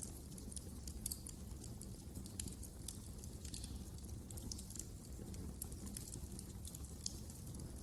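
Wood fire crackling in a fireplace: many small, irregular pops and snaps over a low, steady rush of the flames.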